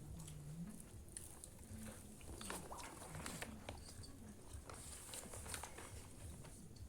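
Faint, close sounds of someone eating fried rice or noodles: chewing with scattered small clicks and taps.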